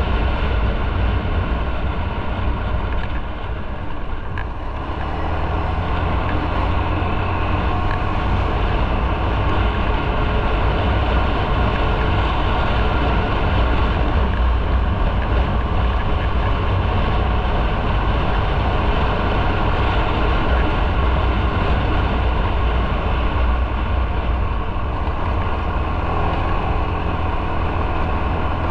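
Motorcycle being ridden: its engine runs steadily under a broad rush of wind and road noise, easing off briefly about four seconds in.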